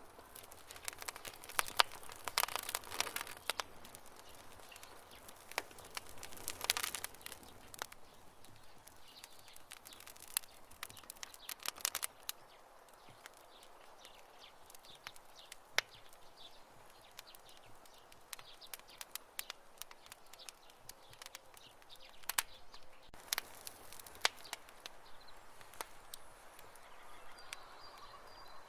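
Wood campfire crackling, with irregular sharp pops and snaps over a soft hiss of burning. Dense flurries of crackles come about two seconds in and again about seven seconds in.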